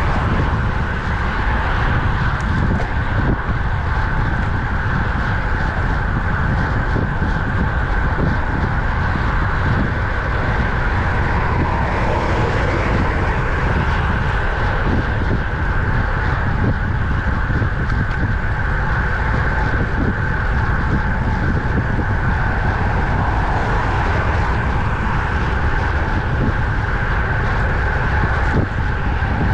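Steady wind rushing over the microphone of a camera riding on a road bike at speed, a dense low rumble with a constant mid-pitched hum of tyre and road noise.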